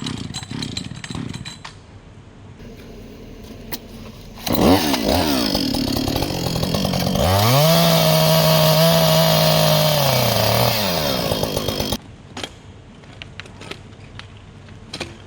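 Two-stroke chainsaw starts up about four seconds in, revs unevenly, then runs at a steady high throttle for a few seconds before its pitch drops. The sound cuts off suddenly near twelve seconds. Light knocks and rattles come before and after.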